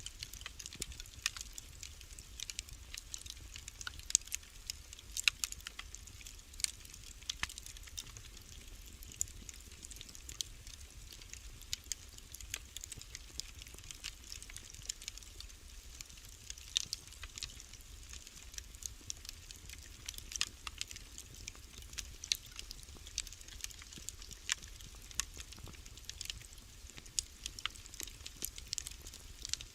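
Wood fire crackling in a fireplace: a steady scatter of sharp, irregular pops and snaps over a low rumble.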